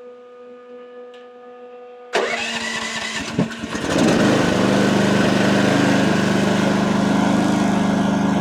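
A faint steady tone, then the AGT WH12R mini excavator's diesel engine cranks about two seconds in, catches, and runs steadily from about four seconds in.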